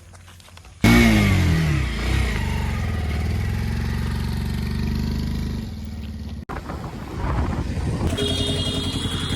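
Heavy diesel engine of construction machinery starting loud about a second in, its pitch falling as it settles into a steady run. It breaks off suddenly at a cut, and another engine sound takes over and builds in level.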